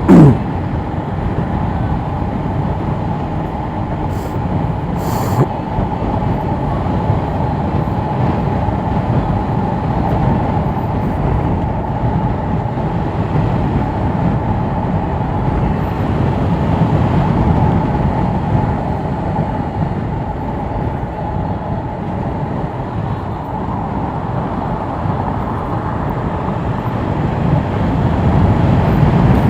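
Yamaha R7 motorcycle cruising at a steady speed: a continuous engine drone mixed with wind rush on a helmet microphone. Right at the start there is a short, loud sound that falls quickly in pitch.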